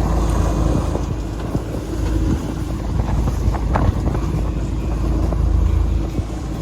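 Boat motoring along: a steady engine rumble mixed with wind buffeting the microphone, with a few light knocks.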